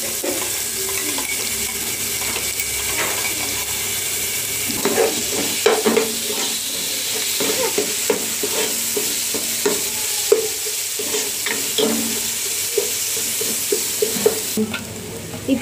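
Sliced shallots, pandan leaves and whole spices frying in coconut oil in a pot, sizzling steadily. From about five seconds in, a wooden spoon stirs them, with short scrapes and clicks against the pan.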